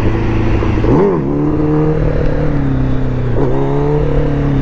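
Kawasaki ZX-10R's inline-four engine running at a steady pace while riding. About a second in the revs rise and fall quickly, and there is a brief dip in pitch at about three and a half seconds.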